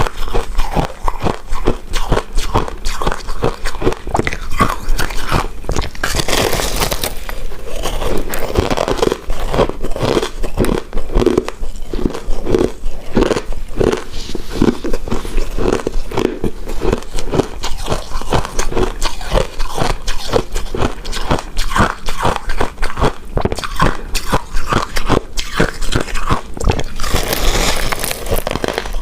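Close-miked chewing and biting of a chewy rice cake coated in shredded coconut: continuous sticky, wet mouth sounds with rapid small clicks. Two brief louder stretches come about seven seconds in and again near the end.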